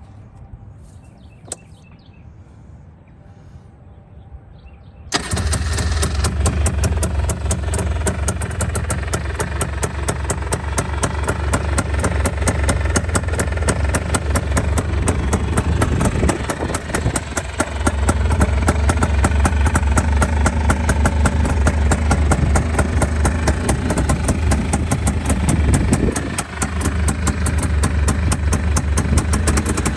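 1989 Honda Pilot (FL400R off-road buggy) single-cylinder engine on a cold start. It fires suddenly about five seconds in, then runs at a fast, even idle that dips briefly twice.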